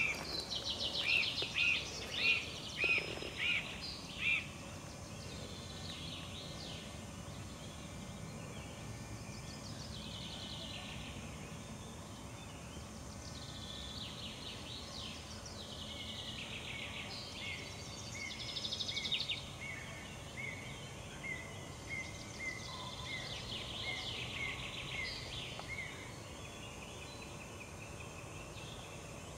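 Songbirds singing over a steady low outdoor background noise: a run of loud, repeated whistled notes in the first few seconds, then chirps and a long, even series of short notes through the second half.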